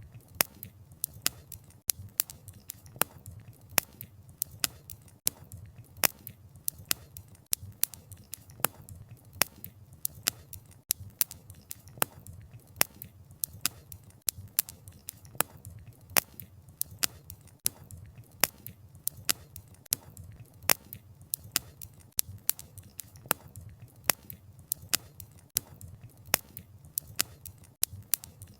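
Wood campfire burning: irregular sharp pops and crackles, several a second, over a low steady rumble of the flames.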